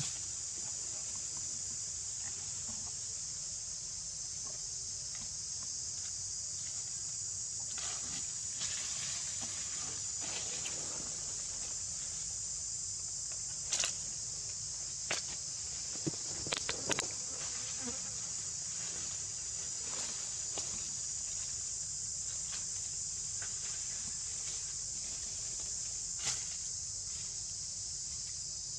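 Steady high-pitched insect chorus, with scattered short clicks and rustles, most of them around the middle.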